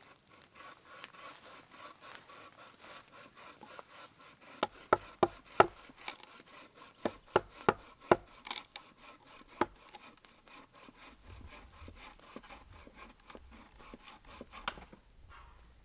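Hand saw cutting through wood in steady, even strokes, with a cluster of sharp wooden knocks in the middle and one more near the end.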